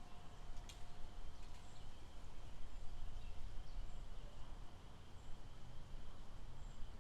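Outdoor lakeside ambience: a steady low rumble under a constant high-pitched chorus, with a few short bird chirps scattered through it.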